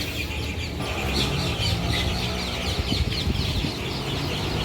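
Many small birds chirping busily together, their quick calls overlapping, over a steady low rumble.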